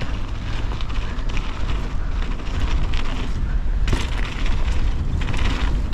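Wind buffeting the microphone of a camera on a mountain bike descending a wet dirt trail, with the tyres rolling over wet dirt and the bike rattling. A brief knock about four seconds in.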